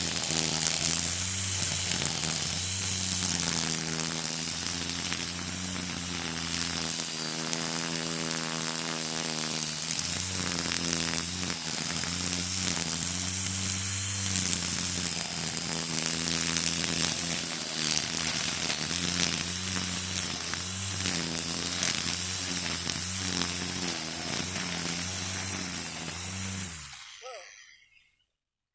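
Engine-powered string trimmer (weed eater) running steadily with the cutting line hissing, its engine pitch shifting a little now and then; near the end the engine is shut off and winds down to silence.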